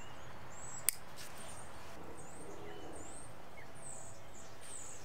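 Small birds chirping in short high calls over a steady background hiss, with one sharp click about a second in.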